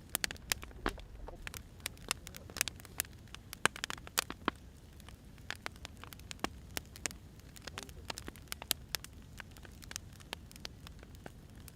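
Burning firewood crackling, with irregular sharp pops, several a second, over a low steady rumble.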